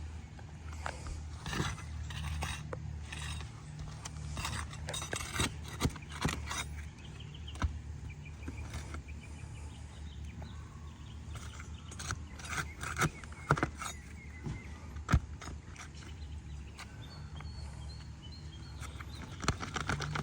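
Steel flat bar prying up an asphalt roof shingle and its nails: irregular metal scrapes, clicks and sharp knocks, with a couple of louder single strikes. A steady low hum runs underneath.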